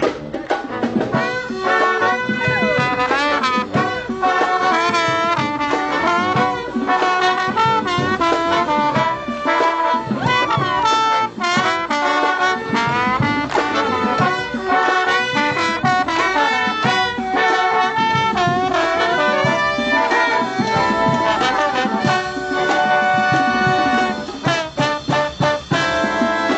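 A college band's brass section, trumpets and trombones with saxophones, playing a lively jazz tune in full ensemble.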